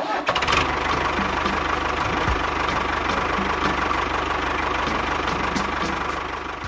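An engine running steadily with a constant low rumble; it fades and cuts off near the end.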